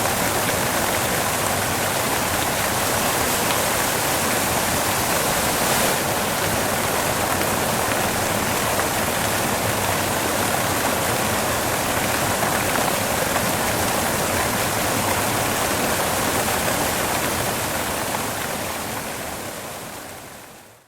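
Steady white noise, an even hiss with no rhythm or events, fading out over the last few seconds.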